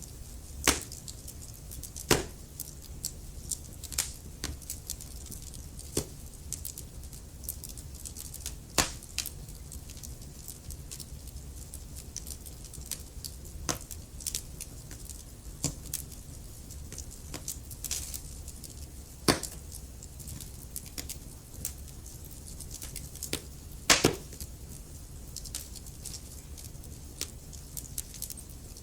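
Wood fire in a fireplace burning with a steady low rumble and hiss, broken by irregular sharp crackles and pops of the burning wood, a few of them much louder than the rest.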